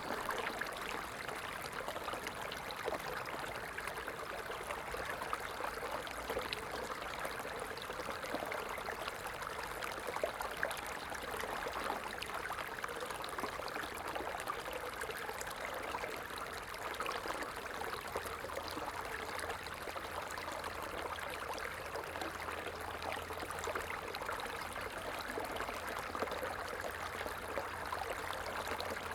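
Stream of water flowing and splashing steadily, a continuous bright rushing with fine trickling detail.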